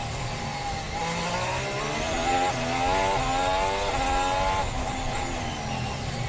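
Formula 1 car engine accelerating, its pitch climbing in several steps as it shifts up through the gears, with a steady rush of noise underneath. The engine fades out about three quarters of the way through.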